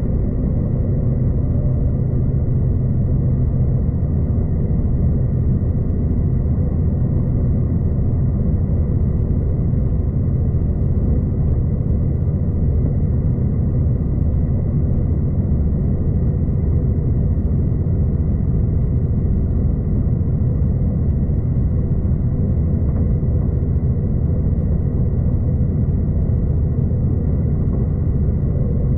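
V/Line passenger train running at steady speed, heard from inside the carriage: an even low rumble of wheels and running gear, with a faint steady high tone above it.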